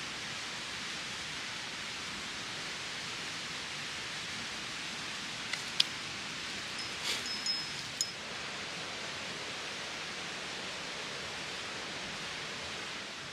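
Steady rushing outdoor noise, with a few sharp clicks and a short high tone between about five and eight seconds in.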